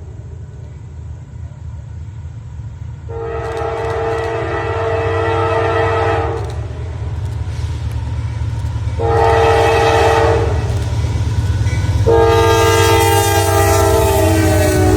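Locomotive air horn sounding a long blast, a short blast and a final long blast whose notes sag slightly in pitch at the end. This follows the standard grade-crossing pattern. Underneath, the low rumble of the approaching train grows louder.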